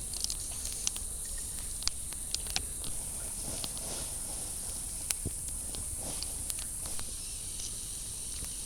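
Outdoor ambience: a steady high-pitched hiss with scattered sharp ticks and light knocks at irregular times.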